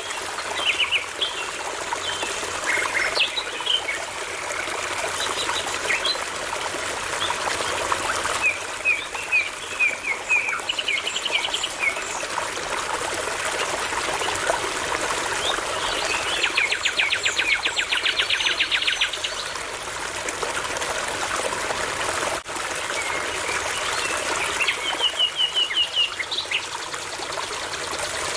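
A brook babbles steadily while a nightingale sings in short phrases of repeated notes. Past the middle it gives a rapid trill lasting about three seconds.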